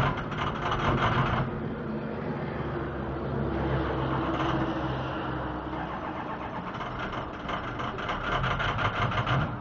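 2006 Ford 6.0L Power Stroke V8 turbo-diesel being cranked on a cold start and slow to catch. There are rhythmic pulses near the start and again near the end, with a steadier stretch between.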